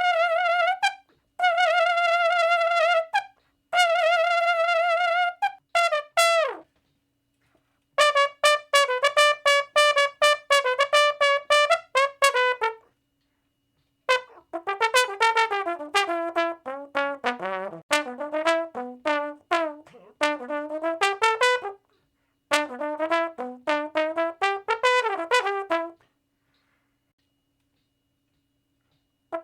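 Solo brass instrument playing: three held notes with vibrato, a short falling slide, a run of fast repeated staccato notes, then quick phrases moving up and down. It stops a few seconds before the end.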